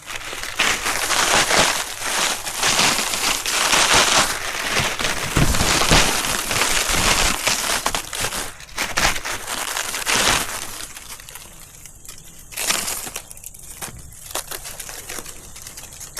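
Dense crunching and crackling of dry forest-floor debris being trampled or pulled apart, heavy for about ten seconds, then dropping to a few brief crackles.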